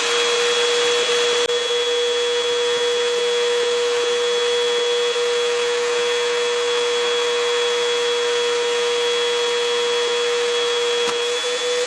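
Vacuum cleaner running steadily, a constant high motor whine over the rush of air, as it sucks dust out of a desktop computer case.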